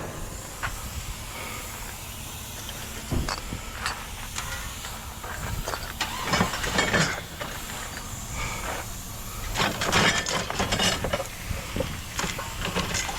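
Scrap metal being unloaded by hand from a trailer: scattered clanks and knocks, with a couple of longer scraping, sliding noises, over a steady low rumble.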